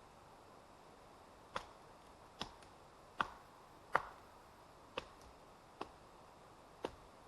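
Seven sharp knocks of wood being struck, irregularly spaced a little under a second apart, the fourth the loudest, over a faint steady hiss.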